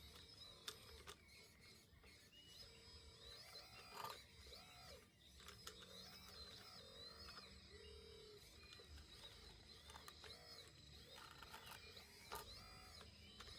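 Faint birdsong: many short, high chirps and warbles, with a few soft clicks.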